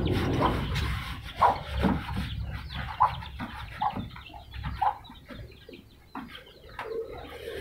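Short, clucking calls from caged birds, about one a second, with faint knocks from hands working on the wooden cage.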